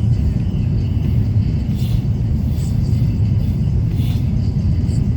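Steady low rumble inside an Airbus A350-900 cabin: engine and airflow noise heard from an economy seat.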